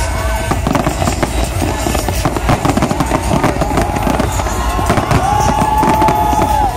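Fireworks display: many aerial shells bursting and crackling in quick, overlapping succession, with no break.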